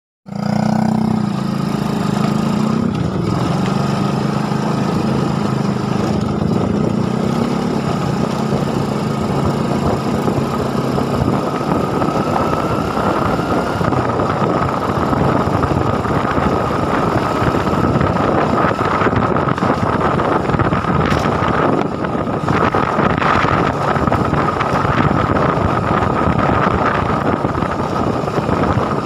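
A small engine running steadily under a dense rushing noise, with a steady high whine throughout. The sound starts abruptly, and the engine's low hum is clearest in the first ten seconds or so.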